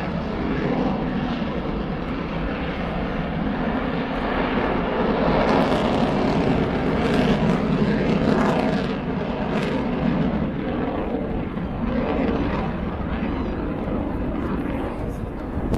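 A Eurofighter Typhoon's twin jet engines heard from the ground during a display pass: a continuous jet roar that swells a little around the middle.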